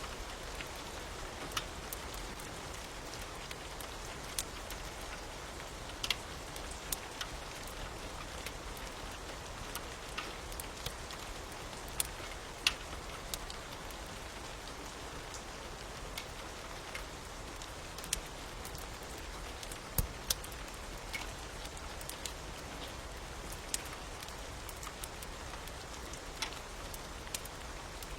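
Steady rain hiss with scattered sharp crackles and pops from a fire, irregular, every second or two.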